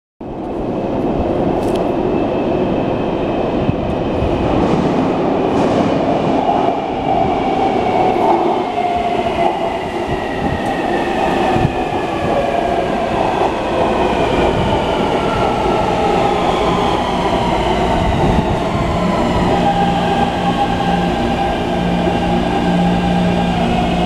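Taipei Metro C321 train pulling into an underground station: a whine of several tones falling steadily in pitch as it slows, over a continuous wheel-on-rail rumble. A steady low hum takes over near the end.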